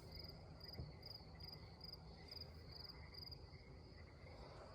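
Faint crickets chirping steadily in the background, a regular chirp a little over twice a second, over a low hum.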